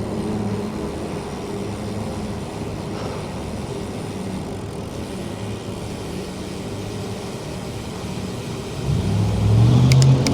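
Street traffic heard from a moving bicycle: a steady hum of engines and tyres. About nine seconds in, a motor vehicle accelerates close by, louder, its engine pitch rising.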